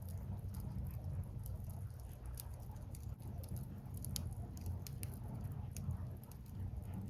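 Firewood burning in an open fire, crackling with irregular sharp pops, some louder than others, over a steady low rumble.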